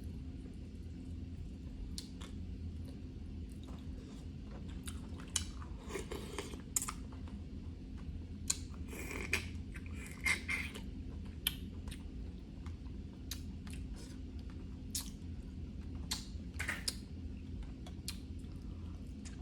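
Snow crab legs being eaten close to the microphone: scattered sharp clicks and cracks of shell being picked and broken, with a few longer bursts of chewing and sucking at the meat.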